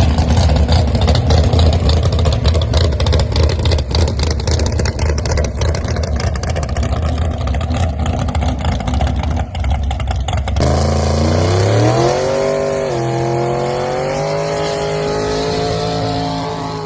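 Loud drag car engine rumbling roughly, then from about ten seconds in a car accelerating hard, its pitch climbing, dropping once at a gear shift and climbing again.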